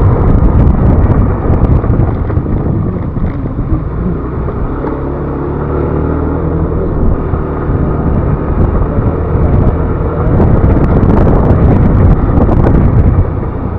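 Yamaha NMAX Turbo scooter riding at road speed: a steady engine drone mixed with heavy wind rumble on the rider's microphone.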